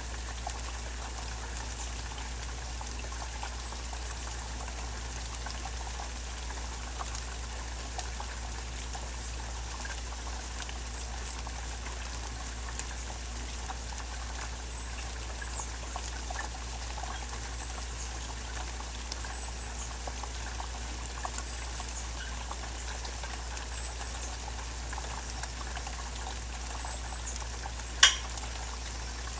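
Steady rain falling with scattered dripping ticks. One sharp, loud click comes near the end.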